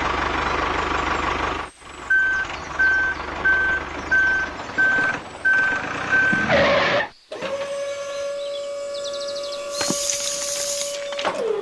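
Vehicle engine noise that cuts off, then a reversing alarm beeping about seven times at an even pace. Then a long steady tone sounds for about four seconds, with a hiss near its end.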